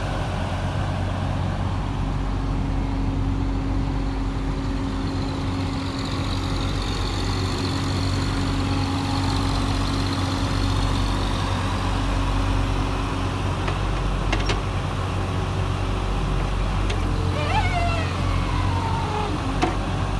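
JCB JS30 excavator's diesel engine running steadily at idle, a low even hum with a higher whine held through the first half. A couple of sharp clicks and some shifting, pitch-sliding whines come near the end.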